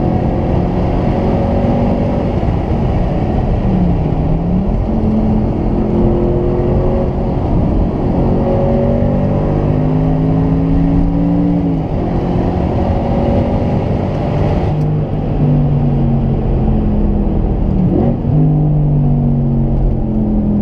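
Audi RS4 B7's 4.2-litre V8, its rear exhaust silencers bypassed, pulling under acceleration. Its note climbs slowly through each gear and drops sharply at upshifts, once about twelve seconds in and again about eighteen seconds in. A short dip and recovery in pitch comes about four seconds in.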